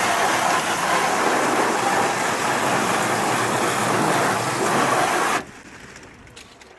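Water from a garden hose with no nozzle spraying and splashing over a car's engine bay, a steady rushing hiss that cuts off suddenly about five seconds in as the flow is shut off.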